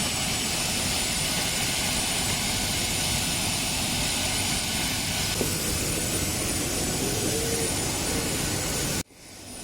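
Steady cabin noise of a Boeing 737-800: the jet engines and rushing air heard from inside the cabin, an even hiss with a faint high whine. About nine seconds in it cuts out abruptly, then fades back in.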